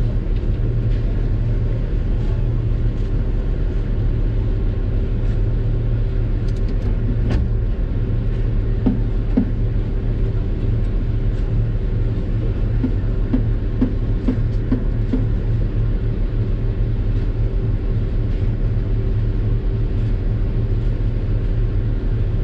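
Doosan DX600 excavator's diesel engine running steadily under working load: a constant low drone, with a few faint clicks and short higher notes partway through.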